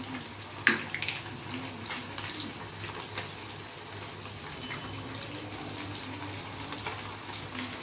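Chicken pakoras with capsicum and onion sizzling steadily in a kadai while tomato sauce is poured over them, with a few light clicks and crackles.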